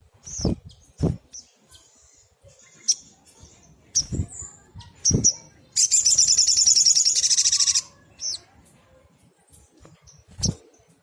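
Olive-backed sunbird calling: short high chirps, then one loud, rapid trill of about two seconds a little past the middle. Several short low thumps are mixed in.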